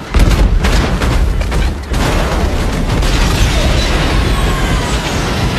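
Bird strike on an airliner's engines: a burst of bangs and thuds just after the start, then heavy, loud rumbling from the damaged engines as they lose thrust.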